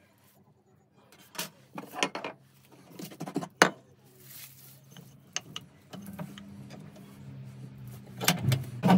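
Scattered sharp clicks and knocks of hard objects being handled, loudest about three and a half seconds in. A low steady hum joins about six seconds in.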